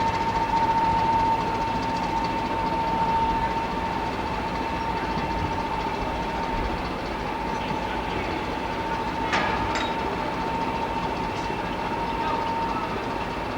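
Train running on the line: a steady rumble with a constant high whine, easing slightly, and a couple of sharp clicks about nine seconds in.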